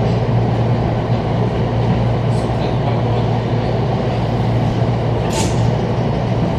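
Steady low hum and rumble inside a JR East commuter train carriage, with a brief hiss about five seconds in.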